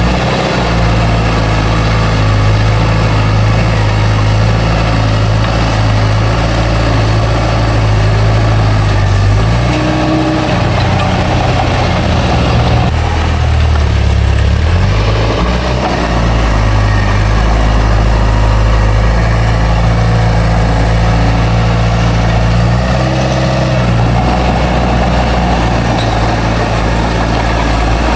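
Bulldozer's diesel engine running under load, a loud low drone that shifts in pitch several times as the machine works, about ten seconds in, again around fourteen to sixteen seconds, and near twenty-three seconds.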